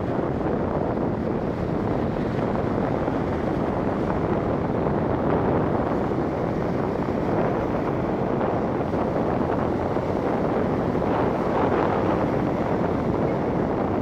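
Storm surf breaking on the shore: a steady rush of waves, with wind buffeting the microphone. The surf swells a little twice, about midway and near the end.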